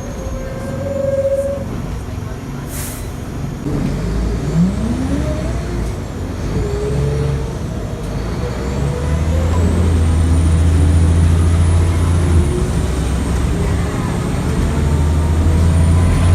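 Scania L94IB bus with a ZF 5HP500 automatic gearbox on the move, its engine note shifting and swelling as it pulls away and changes gear, with gliding driveline whines. A short hiss of air, typical of the air brakes, comes about three seconds in.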